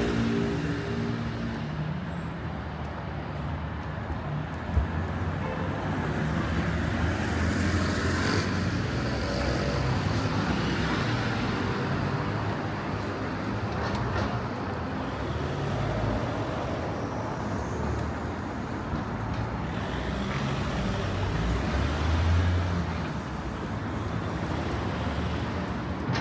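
Urban road traffic: vehicle engines running and passing, a steady low rumble over tyre and street noise. A single sharp click about five seconds in, and the low engine rumble swells briefly near the end.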